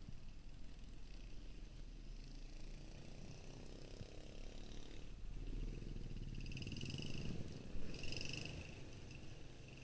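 Motorcycle engine running at low revs: a low pulsing rumble that grows a little louder from about halfway through.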